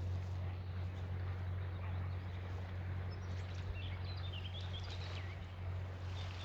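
Outdoor background noise over a steady low hum, with a few faint, high, squiggly bird calls from about three to five seconds in.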